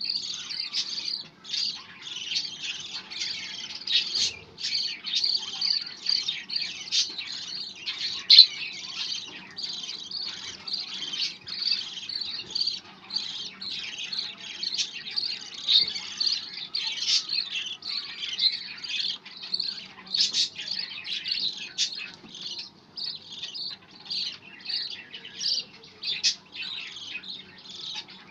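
Budgerigar chatter: a steady run of quick chirps, squawks and warbling notes with hardly a pause.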